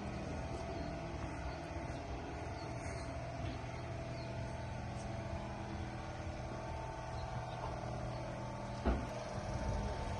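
Caterpillar D8T bulldozer's diesel engine running steadily at idle, with a single sharp knock about nine seconds in.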